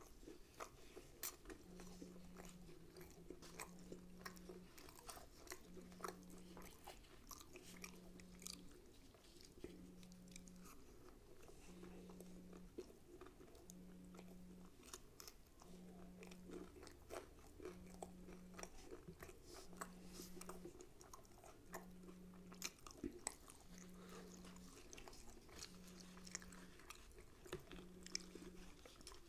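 Quiet, close-up eating sounds: chewing and biting of rumali roti and mutton tikia, with sharp crunches from bites of raw onion scattered throughout. Underneath, a faint low hum pulses on and off about every two seconds.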